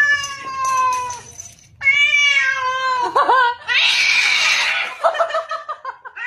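Angry cat yowling in two long, drawn-out calls and a short yelp, then a harsh hiss about four seconds in.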